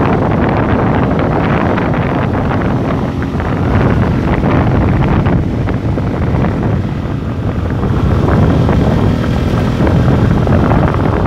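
Wind buffeting the microphone of a moving motorcycle, with the bike's engine and road noise running steadily underneath.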